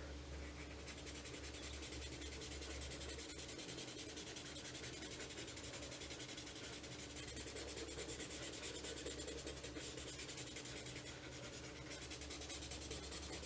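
A cotton bud rubbed quickly back and forth over pencil graphite on sketchbook paper, blending the shading. The strokes start about a second in and keep up a fast, even rhythm.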